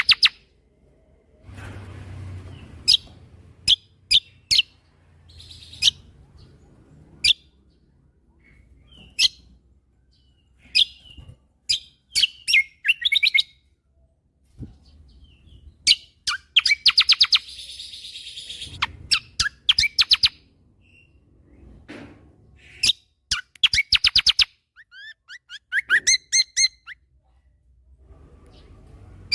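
Kecial kombo (cucak kombo) songbird singing in short bursts of sharp, high chirps. Several phrases break into fast rattling trills, the rapid 'shooting' notes that bird keepers call tembakan.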